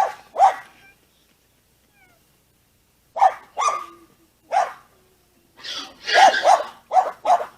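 A series of short, loud animal calls, about eight in all: two at the start, then a run of them in the second half.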